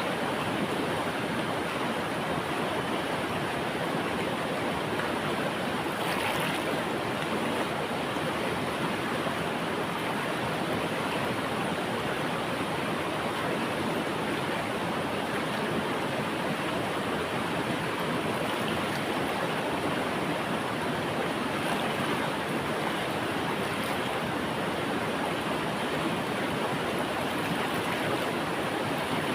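A river flowing: a steady, even rush of running water with no change across the stretch.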